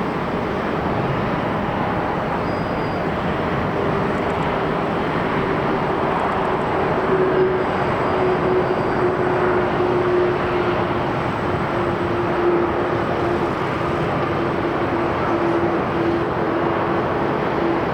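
Boeing 767-300ER's jet engines landing: a steady roar with a tone that slowly falls in pitch.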